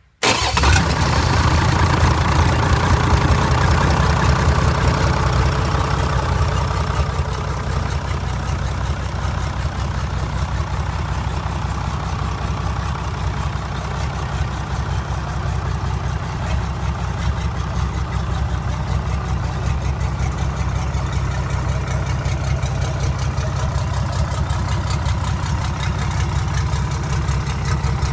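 D6BR six-cylinder diesel engine starting: it fires up within the first second and runs a little louder for several seconds, then settles into a steady idle.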